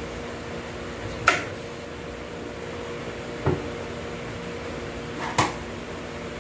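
Three sharp knocks and clinks of transmission parts being handled and set down, about two seconds apart, the first the loudest, over the steady hum of a shop fan.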